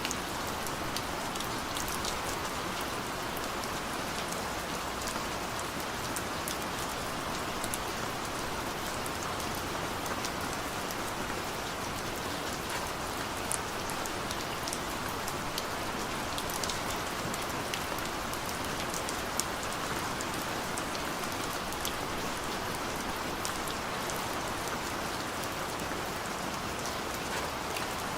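Heavy rain pouring steadily, a dense even hiss with scattered sharper drop ticks.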